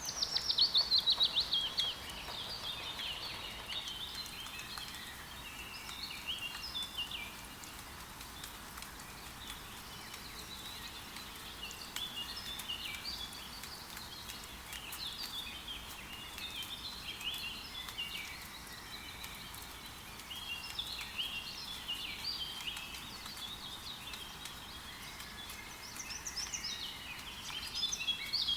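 Several forest birds chirping and singing over a steady hiss of light rain. A rapid trill falling in pitch opens the passage, louder than the rest, and the song grows busier again near the end.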